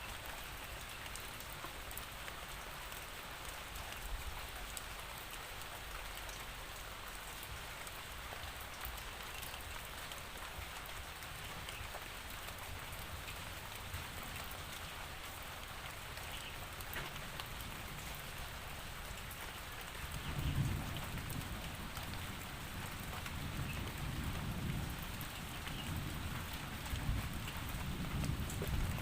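Steady rainfall, a continuous hiss of drops. About two-thirds of the way through a low rolling rumble of thunder comes in and keeps going, swelling and fading.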